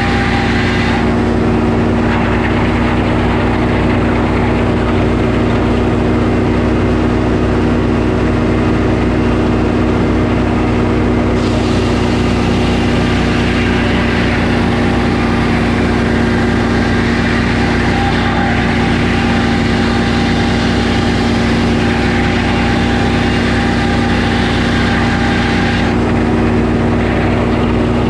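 Sawmill engine running steadily; a higher hiss above it swells and fades a few times.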